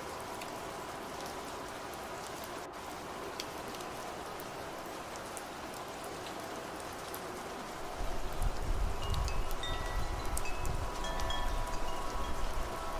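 Steady rain falling, joined about two-thirds of the way through by gusts of wind and the light ringing of wind chimes, several overlapping tones.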